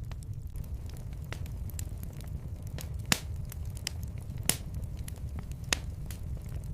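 Wood fire in a fireplace crackling, with many small sharp pops over a steady low rumble of the flames; three louder pops stand out in the middle of the stretch.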